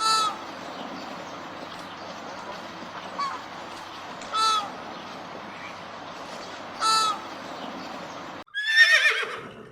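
Animal calls: three short, pitched calls a few seconds apart over a steady background hiss. After an abrupt cut comes a louder, different call that falls in pitch.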